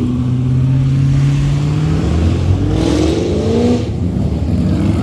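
Car engines running steadily in a line of traffic, with one engine revving up about halfway through, its pitch rising for about a second.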